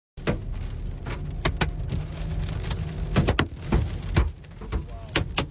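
Large hailstones striking a car in a storm: hard, irregular bangs about two or three a second over a low rumble.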